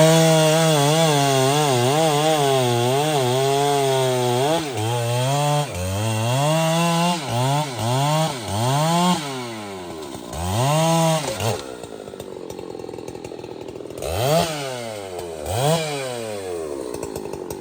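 Large two-stroke chainsaw running at high revs, held fairly steady for about four seconds, then revved up and down several times. About twelve seconds in it drops to idle, gives two more quick revs, and settles back to idle.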